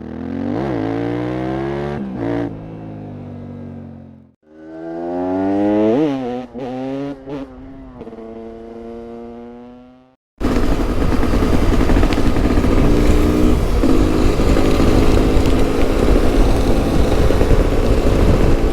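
Yamaha Ténéré 700's CP2 parallel-twin engine with an Akrapovič exhaust revving twice, its pitch climbing quickly and then sinking back each time. About ten seconds in it cuts abruptly to the bike being ridden, a dense steady engine note mixed with wind noise.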